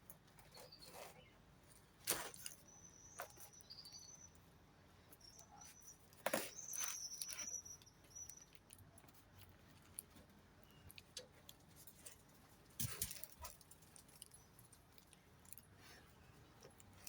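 Small birds giving thin, high peeps, mostly between about three and eight seconds in, amid scattered clicks and knocks.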